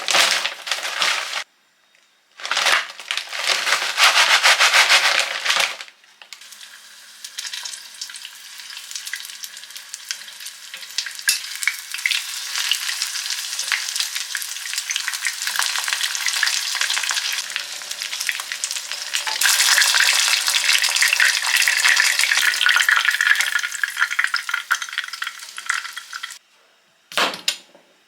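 Food frying in a pan: a steady fine sizzle that grows louder about two-thirds of the way through, then stops suddenly. Before it come two short loud stretches of noise, and near the end a single knock.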